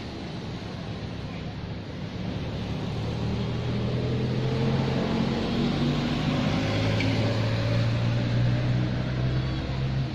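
An engine's steady hum that grows louder from about two seconds in, then cuts off sharply at the end.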